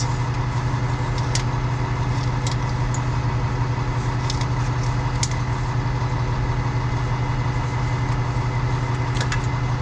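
Truck engine idling steadily, a constant low hum, with a few short, sharp clicks scattered through it.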